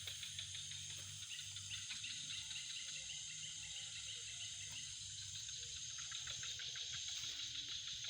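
Chorus of crickets and other insects trilling steadily, with a quick pulsing call running for a few seconds near the start.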